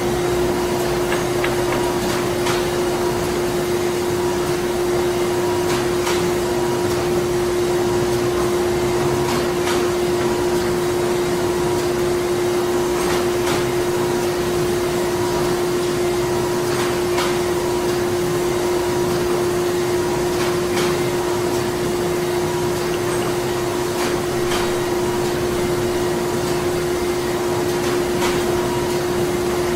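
Printing plant machinery running steadily: a constant mechanical drone with a strong steady hum, and sharp clicks and knocks at irregular intervals every second or two.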